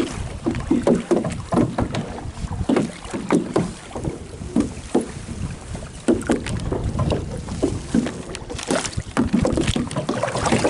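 Canoe being paddled: irregular paddle strokes and water splashing against the hull, with wind rumbling on the microphone.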